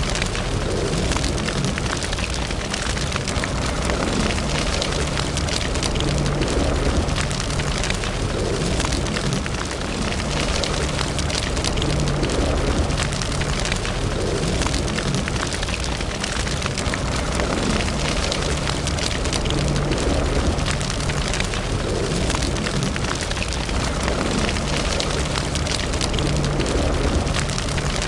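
Wood fire burning in a fireplace: a steady crackle of many small pops over a low rumble.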